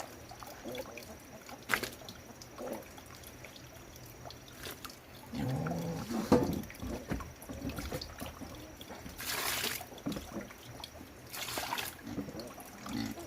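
Water trickling and splashing, with two short hissing spurts near the end.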